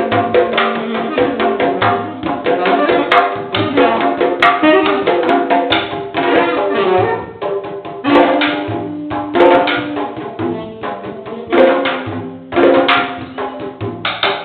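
Candombe drums played with hand and stick in a fast, steady rhythm, with a saxophone playing held notes and a melody over them.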